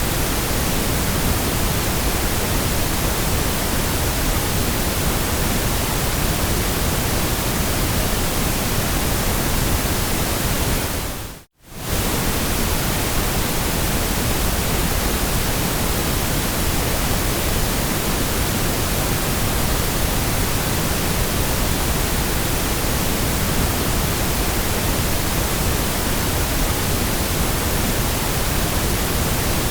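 Steady white noise: an even hiss spread from low rumble to high treble, with no tones or rhythm. About eleven and a half seconds in it fades out to silence and straight back in within about half a second.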